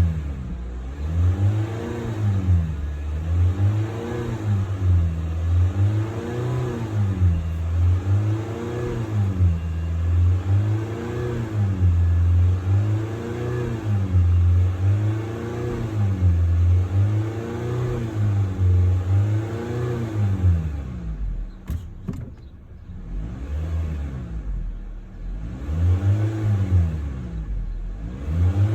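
2020 Honda Civic engine being revved over and over, its pitch rising and falling about every two and a half seconds. About three-quarters of the way through it settles back to a low idle with a couple of sharp clicks, then the revving picks up again near the end.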